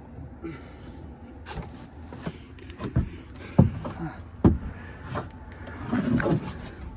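A run of irregular knocks, clunks and scuffs from hands-on work with tools and equipment, the loudest knocks about three and a half and four and a half seconds in.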